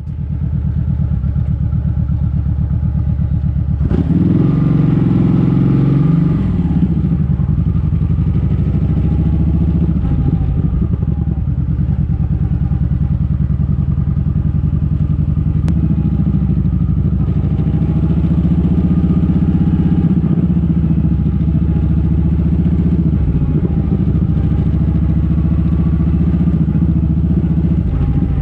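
Kawasaki Vulcan 1700 Vaquero's V-twin engine running under way, with a steady pulsing note that swells and climbs in pitch for a couple of seconds about four seconds in as the bike picks up speed, then settles.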